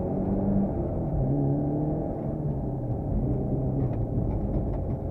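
Mitsubishi Lancer Evo IV's turbocharged four-cylinder engine heard from inside the cabin under hard driving, revving up and dropping back repeatedly as the driver works through the gears.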